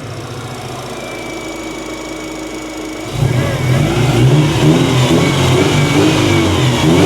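Subaru Impreza flat-four engine running evenly, then revved about three seconds in and getting much louder, with the pitch rising and falling. It is running smoothly, without the earlier misfire, after a connector knocked loose during the swap was reconnected.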